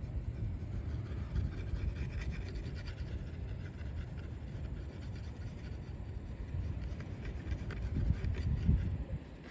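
Paintbrush scratching and scrubbing paint onto a painting surface, over a steady low rumble.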